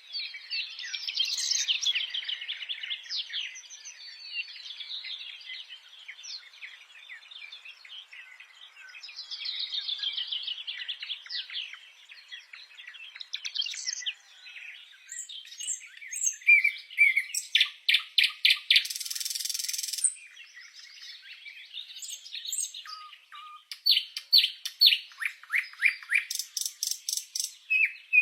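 Several songbirds singing and chirping together, warbling phrases mixed with quick runs of repeated notes. About two-thirds of the way through comes a harsh buzz lasting about two seconds, and fast rattling trills follow near the end.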